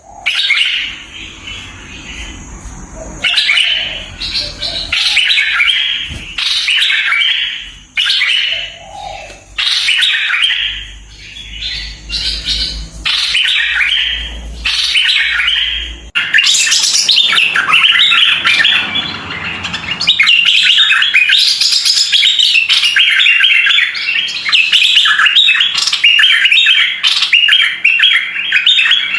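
A merbah lekir bulbul singing bubbly chirped phrases with short pauses between them. About halfway through the song turns denser and louder and runs on almost without a break. A low rumble lies under the first half.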